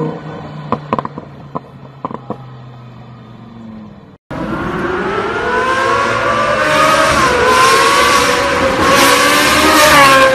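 Car engine running low, with several sharp pops over the first few seconds. After an abrupt cut, a much louder car engine revs hard, its pitch climbing and wavering.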